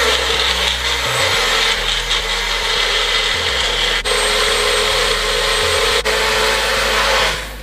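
Magic Bullet personal blender motor running at full speed, grinding green onions, garlic, peppers and water into a wet green seasoning. It runs steadily with two very brief breaks about four and six seconds in, and stops near the end.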